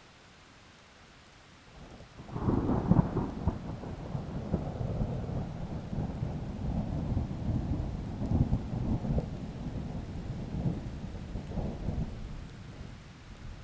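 A long roll of thunder over light steady rain. The rumble breaks in about two seconds in, is loudest just after, rolls on in uneven peaks and fades away near the end.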